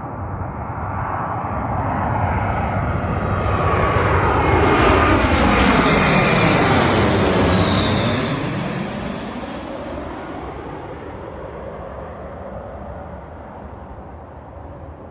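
Airbus A320 jet engines passing low overhead on landing approach. The sound swells to its loudest about halfway through, then fades away, and the engines' high whine drops in pitch as the plane goes by.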